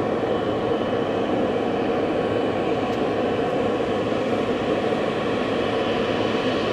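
Jet engines of an Air India Boeing 777-300ER running steadily as it taxis: an even, unbroken hum with a faint whine above it.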